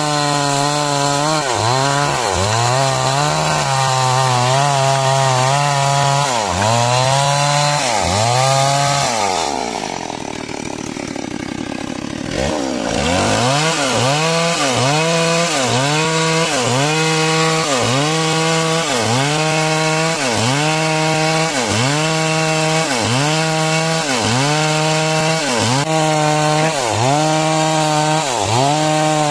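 Two-stroke chainsaw ripping lengthwise through a log to cut a beam. The engine pitch dips and recovers about once a second as the chain loads in the cut. About a third of the way in, the engine falls to a lower speed for about three seconds, then revs back up into the cut.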